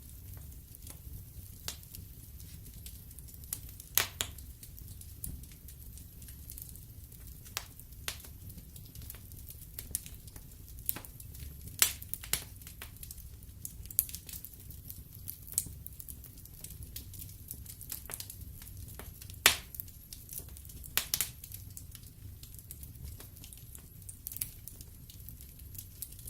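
Wood fire burning in a fireplace, the logs crackling with irregular sharp pops and snaps over a low steady rumble of the flames; one snap about three-quarters of the way through is the loudest.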